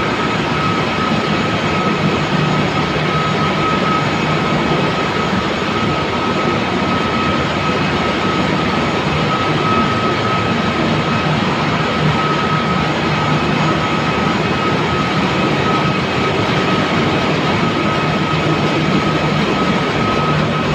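Engine-room machinery of a 200,000-ton ship running: a loud, steady din with a steady high whine over it and a low hum underneath.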